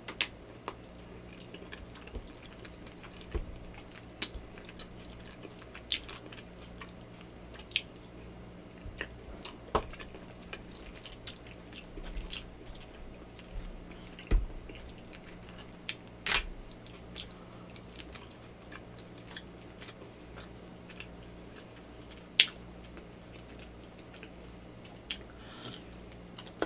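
Close-miked chewing and mouth sounds of a person eating, with irregular sharp wet clicks and smacks.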